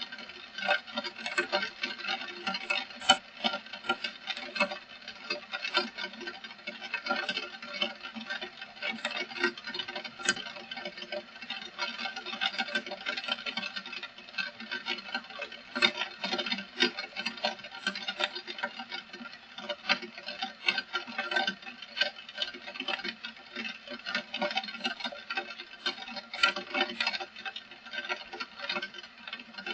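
Heavy rain falling steadily, a dense, irregular patter of countless drops.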